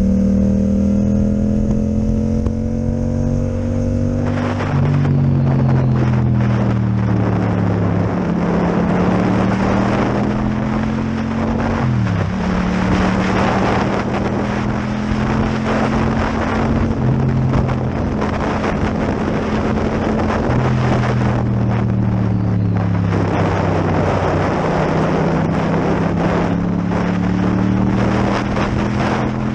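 Yamaha MT-07 parallel-twin with an Akrapovic exhaust running under way, its engine note rising and falling with the throttle, with a sudden dip in pitch about twelve seconds in. Wind rushes over the microphone, louder from about four seconds in.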